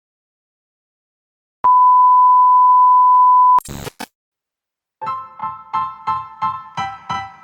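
A steady, high electronic beep tone held for about two seconds, cutting off with a brief crackle. About five seconds in, piano music starts with evenly repeated notes.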